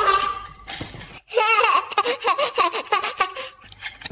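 A baby laughing: a high-pitched squeal at the start, then, about a second and a half in, a run of quick, rhythmic giggles lasting about two seconds.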